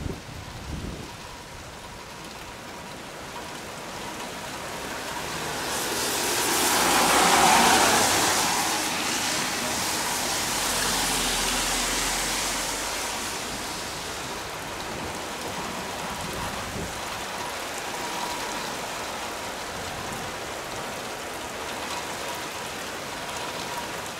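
Heavy rain pouring down in a thunderstorm, a steady rushing hiss that swells to its loudest about seven or eight seconds in and then eases back.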